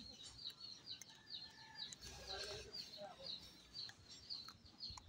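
A small bird chirping steadily and faintly, a run of short, high, quickly falling notes about three a second.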